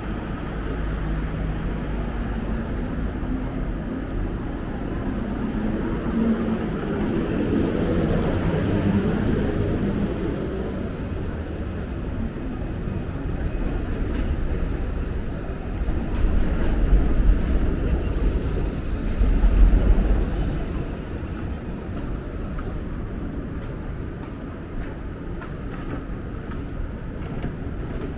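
Wind buffeting the microphone with a deep, gusting rumble over street noise of passing traffic. A vehicle swells past early on, and the strongest gusts hit about two-thirds of the way through.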